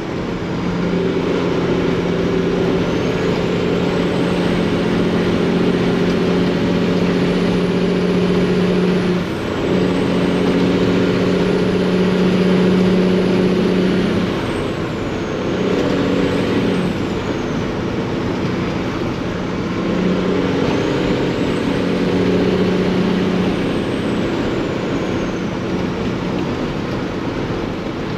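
Freightliner truck's Detroit diesel engine running through loud exhaust pipes, with a turbo whistle sliding up and down above it. The engine note breaks off briefly a few times.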